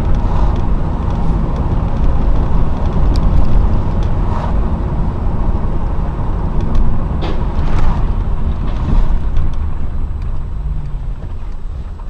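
Car driving, heard from inside: a loud, steady low rumble of engine and road noise, with a few brief knocks.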